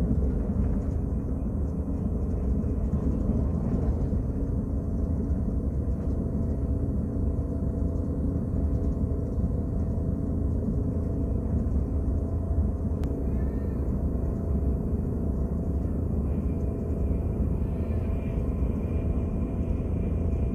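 Steady low rumble of a KTX high-speed train running at speed, heard from inside the passenger car.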